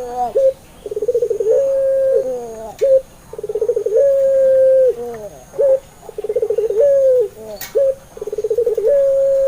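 Puter pelung (ringneck dove) cooing four times, about every two and a half seconds. Each coo is a quick rolling trill running into a long held note that drops at its end, followed by a couple of short notes.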